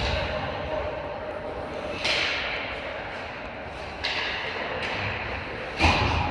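Ice hockey play in a rink: skate blades scraping the ice in two hissing strokes about two and four seconds in, then a sharp knock near the end.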